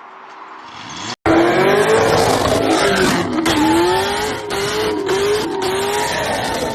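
Loud car noise with a wavering, gliding squeal over a noisy roar, cutting in abruptly about a second in after a brief dropout.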